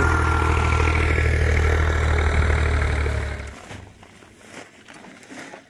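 Zetor tractor's diesel engine idling steadily, then cutting off abruptly about three and a half seconds in.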